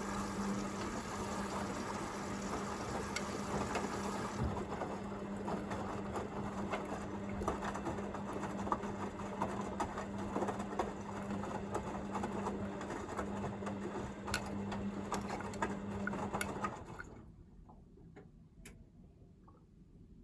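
Hoover VisionDynamic washing machine tumbling the drum during its second rinse: a steady motor hum with water sloshing and clothes dropping. The drum stops turning about three-quarters of the way through, between tumbling strokes.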